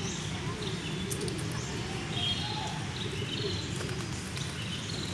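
Birds chirping in short, high calls scattered over a steady low background rumble.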